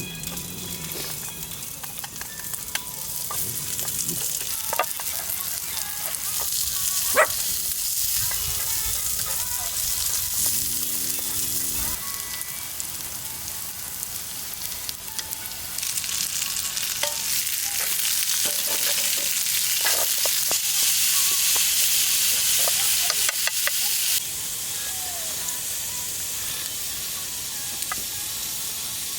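Food sizzling in a hot pan, a steady hiss with scattered small pops and clicks. The hiss grows louder about halfway through, then drops back suddenly a few seconds before the end.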